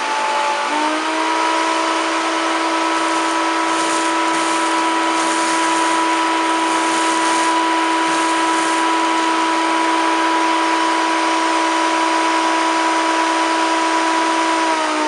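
Hoover Turbopower 2 1000 U2814 upright vacuum cleaner running on its hose. The motor's pitch rises about a second in, holds steady, and drops back just before the end. Faint light ticks through the middle come from cornflakes being sucked up.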